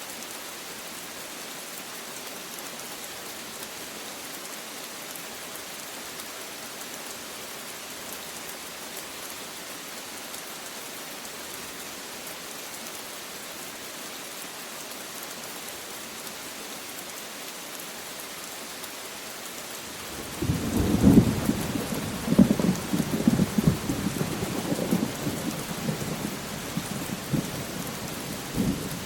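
Steady rain falling as an even hiss, then about twenty seconds in a thunderclap breaks out and rumbles with crackles, slowly dying away near the end.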